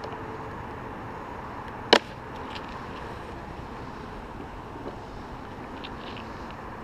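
A wooden beehive box being pulled up off the hive: one sharp crack about two seconds in, over steady background noise.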